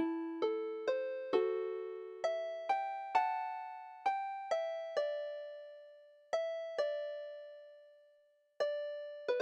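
Kalimba playing a slow melody, one plucked note at a time and sometimes two together, each ringing out and fading. The notes come about half a second apart, with longer held notes in the middle, and the sound dies away almost completely before a few more notes near the end.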